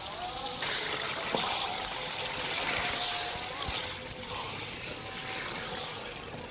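Mashed turnip sizzling in hot oil in an aluminium karahi as a wooden spoon stirs it in. The sizzle swells sharply about half a second in, then rises and falls with the stirring.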